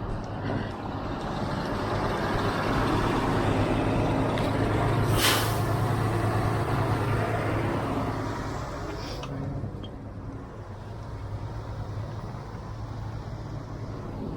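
Heavy truck's diesel engine running, growing louder for a few seconds and then easing off, with a short sharp hiss of air brakes about five seconds in and a fainter hiss a few seconds later.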